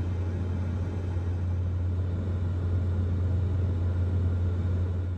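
Steady low hum and rumble of an electric-car fast-charging session under way, a charger running with the car plugged in.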